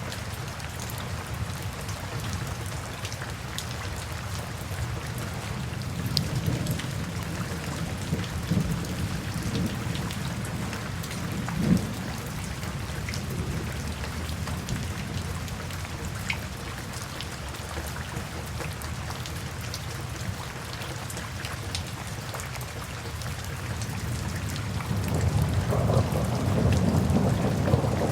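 Steady rain falling, with scattered individual drop ticks. A low rumble of thunder builds near the end.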